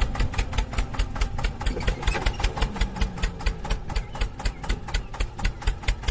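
Small tractor engine chugging steadily at idle, an even beat of about six pulses a second.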